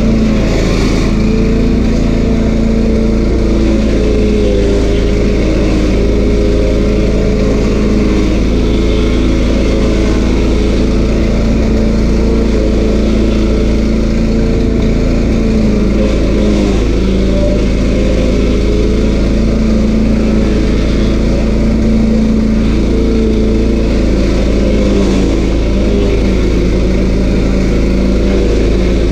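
A stump grinder's 13 HP Honda single-cylinder engine running steadily, its pitch rising and dipping slightly as it works.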